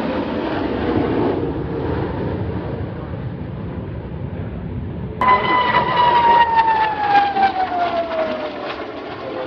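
Jet aircraft of an aerobatic display team flying past, the engine whine falling steadily in pitch as they pass. About five seconds in the sound jumps abruptly to a louder, higher whine that again slides down in pitch.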